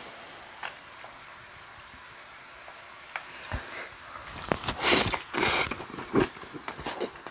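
A man chewing a mouthful of food with loud wet smacking and slurping mouth sounds, strongest about five seconds in. Before that, a few light clicks of chopsticks.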